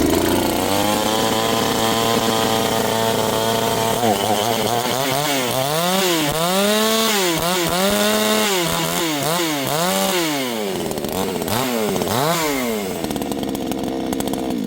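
62cc Dereal two-stroke chainsaw running after a hard start from an empty tank. It holds a steady speed for about four seconds, then is revved up and down repeatedly with the throttle, and cuts off at the end.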